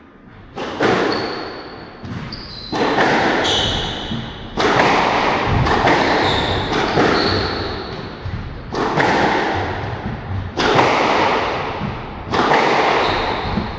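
A squash rally: the ball is struck hard about every two seconds, each hit cracking off racquet and walls and ringing out in the court, with short high squeaks of court shoes in between.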